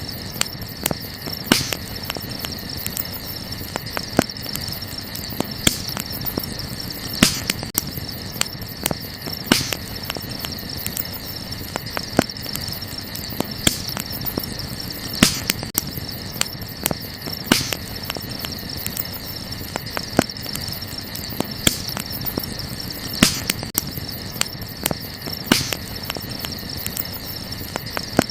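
Wood fire crackling, with irregular sharp pops a second or two apart, over a steady high chirring of night insects.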